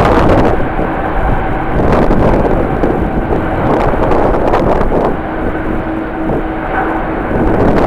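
Jet airliner engine noise mixed with strong wind buffeting the microphone, a loud steady rush with a faint steady tone appearing twice.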